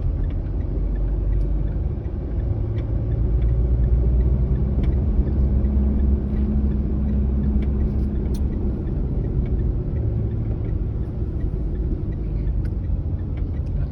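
A manual-transmission car's engine running with road rumble as it drives. The engine note gets louder a few seconds in and settles back after about eight seconds.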